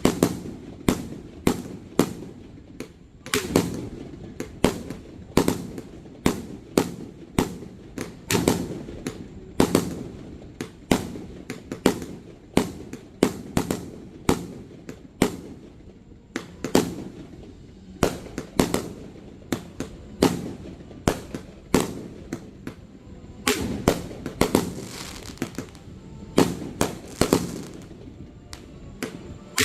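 Aerial fireworks going off in quick succession: a sharp bang about once a second, each followed by a short echoing tail, with a few bangs bunched closer together a little past halfway.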